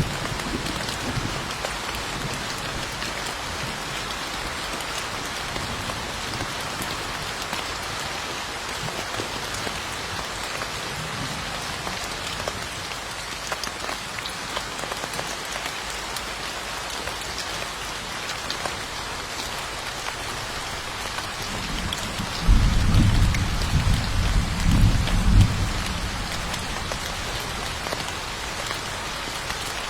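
Steady rain falling. A low roll of thunder rumbles for a few seconds about two-thirds of the way in.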